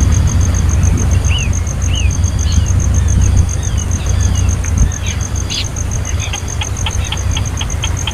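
A baby bird's short, high chirps: a few curved calls in the first half, then quick runs of ticking chirps near the end. They sit over a heavy low rumble, with a steady, fast-pulsing high tone throughout.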